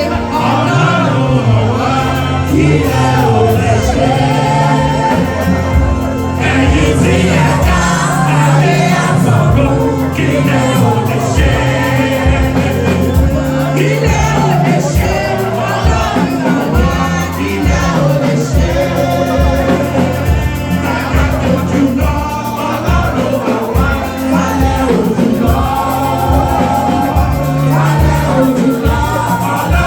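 Gospel music: a group of voices singing over band accompaniment with a steady bass beat.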